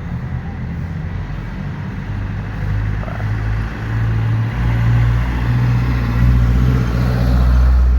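A motor vehicle's engine running close by in street traffic, a low drone that grows louder over the second half.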